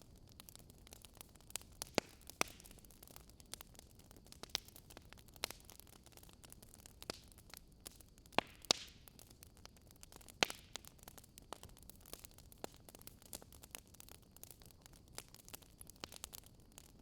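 Wood fire crackling: irregular sharp pops and snaps, a few louder ones among many small ticks, over a faint steady hiss.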